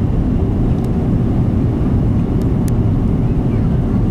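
Airbus A330 cabin noise during landing: a steady low rumble of the jet engines and airflow, heard from inside the passenger cabin, with a few faint ticks.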